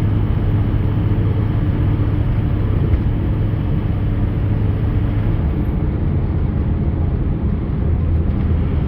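Ford pickup's tires and drivetrain running at about 60 mph: a steady road rumble with a faint low hum, which the owner takes for tire hum rather than the newly replaced rear wheel bearings.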